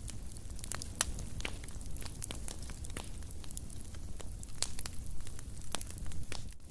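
Fire burning in a fireplace, crackling with irregular sharp snaps and pops over a low steady rumble of the flames.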